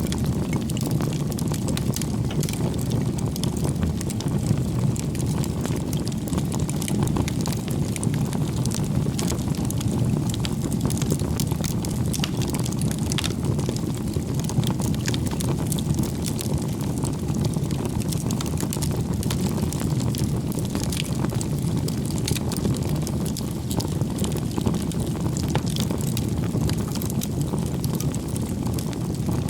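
Wood fire burning steadily: a low rushing of the flames with constant small crackles and pops of burning firewood.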